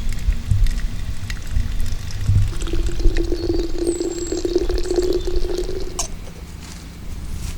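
Liquid being poured into a container, starting about two and a half seconds in and lasting about three seconds. A low steady rumble runs underneath, and a bird chirps briefly in the middle.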